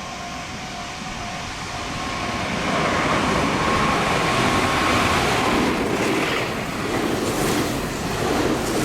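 Meitetsu electric train passing through a station at speed without stopping: a rush of wheel and air noise that builds over a couple of seconds, is loudest about halfway through with a steady whine, then slowly eases off.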